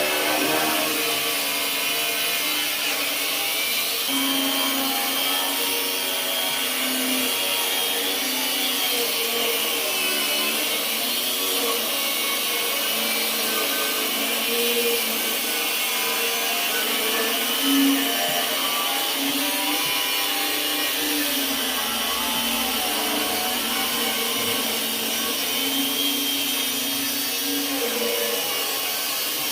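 Angle grinder running continuously, its motor whine wavering slightly in pitch.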